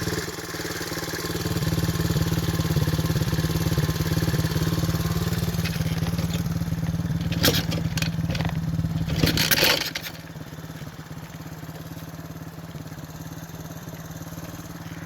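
A 125cc pit bike engine idling at a steady, unchanging pitch, with two brief noisy bursts about halfway through. It drops much quieter for the last third.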